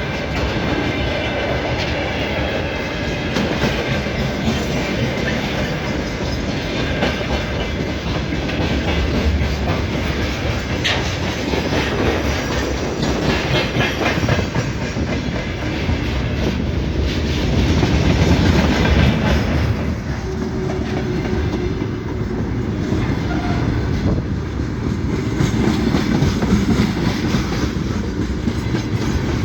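A train running on the track, its wheels on the rails making a steady, loud rolling noise that lasts throughout.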